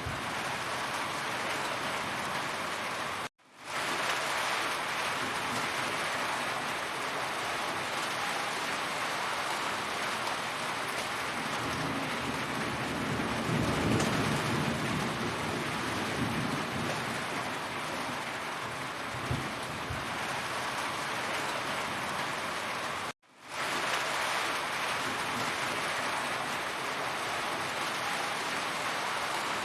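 Heavy rain falling steadily, a dense even patter of drops hitting surfaces. A low rumble swells and fades in the middle, and the sound cuts out for an instant twice.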